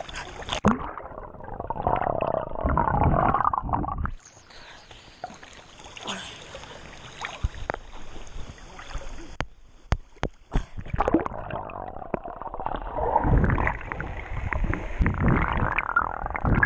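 Muffled rushing, gurgling water and bubbles heard through a camera held underwater in the sea. The sound changes abruptly about four seconds in and again around ten seconds.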